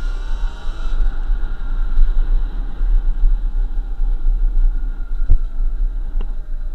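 Electric motor whine from a 2023 Sur-Ron Light Bee X electric dirt bike, its pitch slowly falling as the bike slows, under heavy wind rumble on the rider's microphone. There are a couple of short knocks in the second half.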